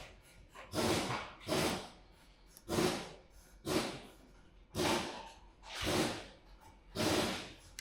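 Rhythmic back-and-forth rubbing or scraping strokes on the repaired plastic skid plate, about one stroke a second, each a short rising and falling rasp.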